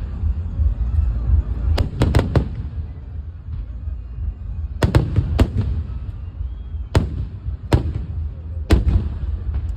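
Aerial fireworks shells bursting in sharp bangs that come in clusters, a quick run of four, then three, then single bangs, over a steady low rumble.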